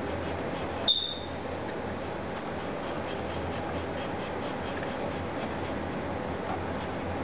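Steady background hum and hiss, with one brief high-pitched chirp about a second in.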